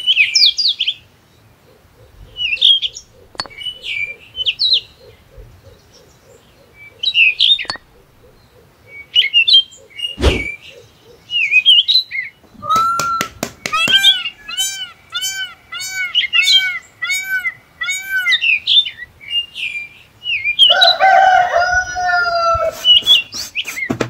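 Birds chirping in short, scattered calls, with a few sharp knocks and one low thump about ten seconds in. In the second half come a rapid run of evenly repeated rising-and-falling call notes, then a louder call with falling pitch near the end.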